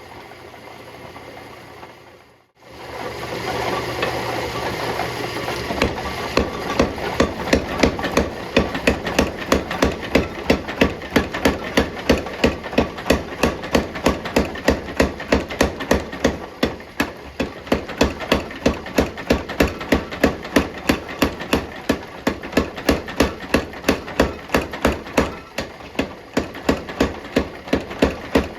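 Hammer blows forging a hot steel bar: a long run of sharp, evenly spaced strikes, about three a second, over a steady rushing background noise. The strikes begin a few seconds in, after a brief break in the sound.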